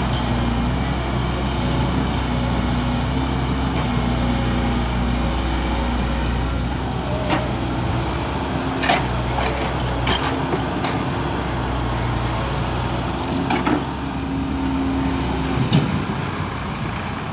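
Heavy diesel engine running steadily, with a few sharp knocks along the way; the low rumble eases near the end.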